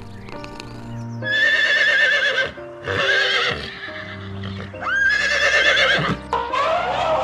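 Horse whinnying, about four loud, wavering calls one after another starting about a second in, over soft background music.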